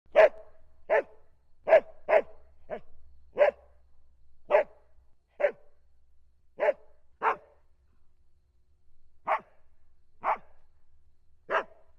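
A dog barking: about thirteen short single barks, roughly one a second, with a longer pause about two-thirds of the way through.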